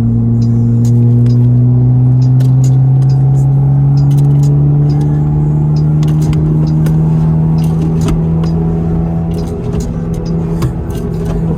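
Car engine running under steady load, its pitch slowly rising as the car gathers speed, with scattered light ticks over the top.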